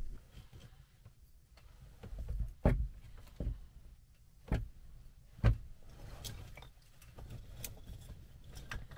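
A few sharp knocks and thumps, four of them about a second apart, over a low rumble in a small room.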